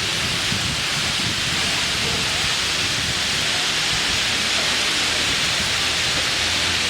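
Fountain water jets and falling water of a water show, a steady hissing splash with no break.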